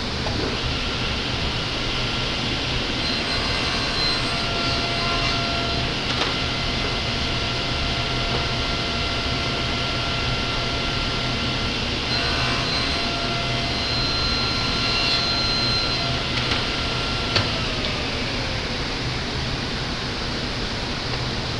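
Table saw running and making two crosscuts through wooden boards: a steady tone rises above the saw's noise during each cut, about 3 seconds in and again about 12 seconds in. Near the end the tone slides down as the blade winds down.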